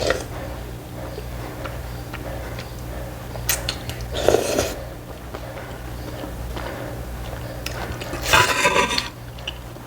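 Eating noises from a meal of ramen from a thin metal pot: utensils knocking on the pot and a few short eating sounds, with a louder stretch near the end, over a steady low hum.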